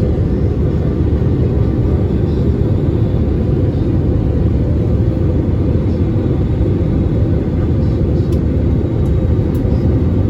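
Steady rumble of an airliner in flight, heard inside the passenger cabin: an even, unbroken drone of engine and airflow noise, strongest in the low range.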